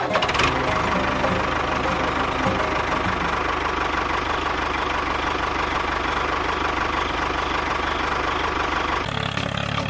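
Small engine idling steadily with a knocking rumble, likely a miniature tractor's motor. It stops about nine seconds in.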